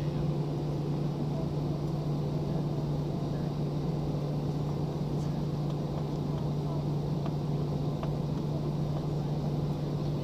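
Steady jet engine and airflow noise inside an airliner's passenger cabin in flight, with a constant low hum and a few faint clicks.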